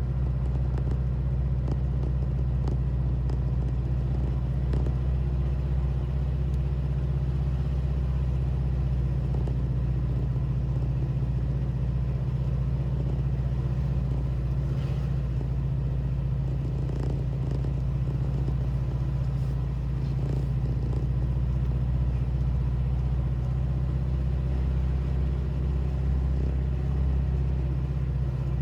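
A vehicle driving along at a steady speed: a steady low drone of engine and road noise.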